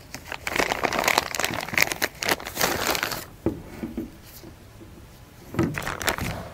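Plastic VCI anti-rust bag crinkling as it is handled and opened to take out a diesel injector, in a long run of crackling and then a shorter burst near the end.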